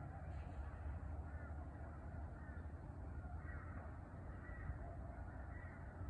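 Faint bird calls, short arching notes repeated several times, over a steady low rumble.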